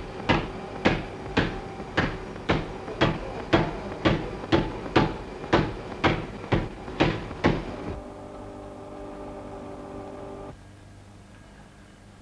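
A regular series of sharp knocks, about two a second, each dying away quickly, which stops about seven and a half seconds in. A steady held tone of several notes follows and drops to a faint low hum about ten and a half seconds in.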